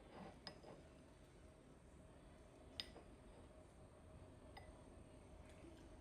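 Near silence: quiet room tone with three faint, short clicks.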